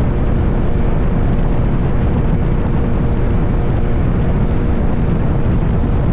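Heavy wind buffeting on the microphone of a moving motorcycle, with the motorcycle's engine running underneath as one loud, steady rush.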